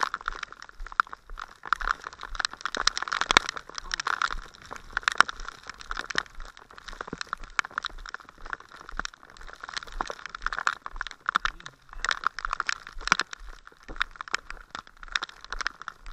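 Heavy rain hitting a waterproof camera case, a dense, irregular crackle of drop hits, mixed with crunching footsteps on a wet gravel path.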